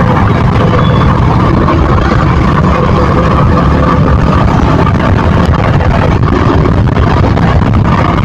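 KTM motorcycle's engine and exhaust running steadily under way, the level even throughout with no clear revving.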